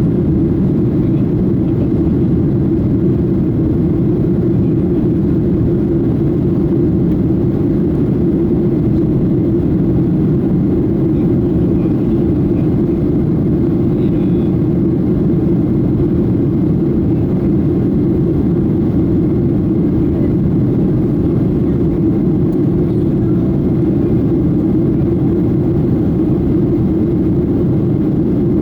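Steady cabin noise of a Boeing 737-800 in flight: an even low rumble of the jet engines and air rushing past the fuselage, unchanging in level.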